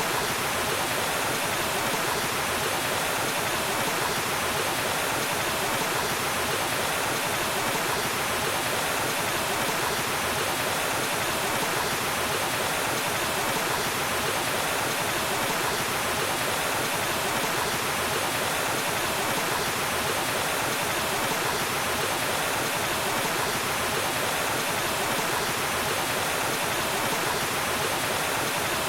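Waterfall: water falling and rushing in a steady, even roar-like hiss with no breaks.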